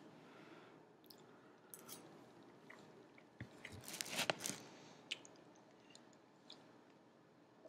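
Soft chewing of a mouthful of food. About four seconds in comes a short cluster of knocks and clicks as the webcam laptop is grabbed and tilted down, followed by a few light clicks.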